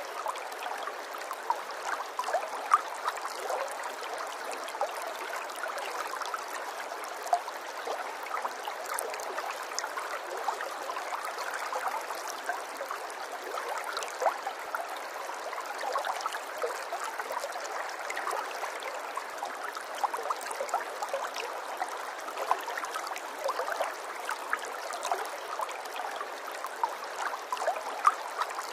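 Running water, like a small stream, trickling and gurgling steadily, with many small bright plinks scattered throughout and no deep rumble.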